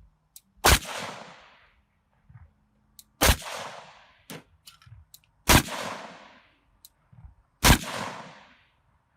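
Four single gunshots from a firearm, spaced about two to three seconds apart in slow aimed fire, each followed by a short echo dying away. A few faint clicks sound between the shots.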